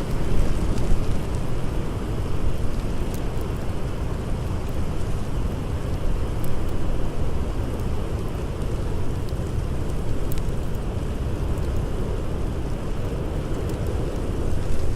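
Blizzard wind blowing steadily and heavily, strongest in the low range, with a few scattered sharp crackles of a wood fire.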